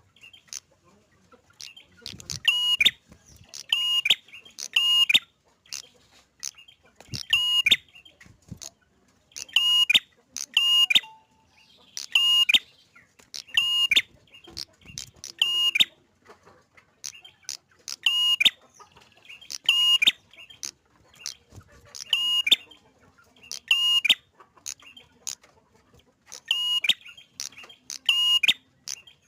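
Prenjak (prinia) giving short, sharp, repeated calls, one every second or two and often in quick pairs: its persistent territorial calling.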